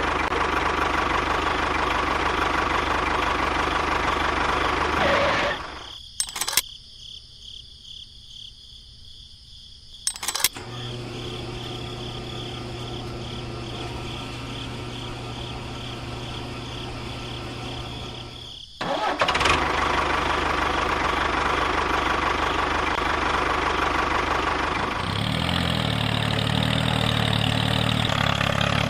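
A small machine's motor running steadily, broken by abrupt cuts: a quiet stretch with two sharp clicks, then a lower steady hum, then the louder running noise again.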